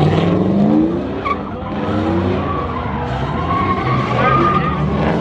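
A truck's engine revving hard, its pitch climbing twice, with tires squealing.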